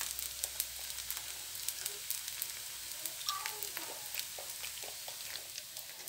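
A zucchini-and-carrot dosa frying in a hot pan: a steady sizzling hiss with many small crackles.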